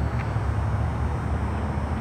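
Steady low engine rumble, as of a car idling.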